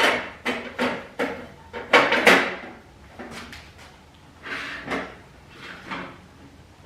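A part being fitted back onto a MIG welder's wire-feed compartment: a quick series of sharp plastic-and-metal clicks and knocks, loudest about two seconds in, then a few softer knocks.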